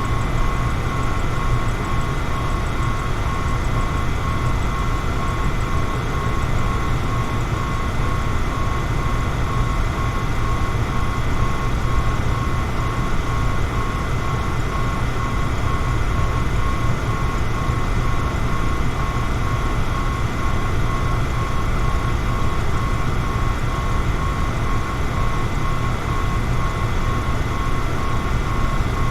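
Electric fan running steadily: an even, low-pitched rush of air with a faint steady whine on top.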